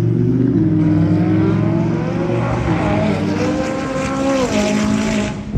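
A car's engine pulling hard under acceleration, its pitch climbing and then dropping twice as it shifts up through the gears.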